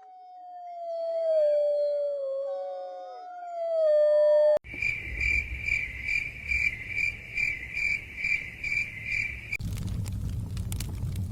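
Several overlapping canine howls, long calls sliding down in pitch. Just under halfway through they cut off abruptly and crickets chirp in a steady pulse, about two chirps a second, over a low rumble. Near the end that switches to fire crackling.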